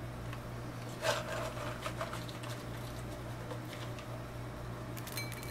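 Brief rustle of a snack package being handled about a second in, with a few faint clicks later, over a steady low electrical hum.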